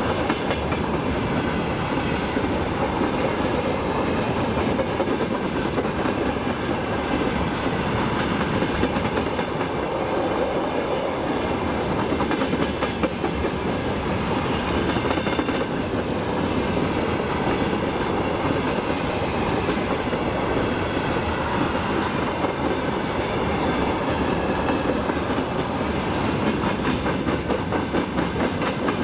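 Railway cars rolling steadily past at close range, their wheels clattering rhythmically over rail joints.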